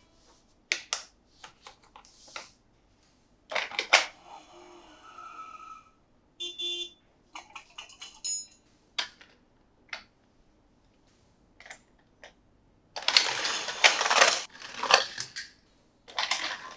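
Plastic toy packaging being handled and opened: scattered sharp clicks and taps, then a longer stretch of rustling about thirteen seconds in.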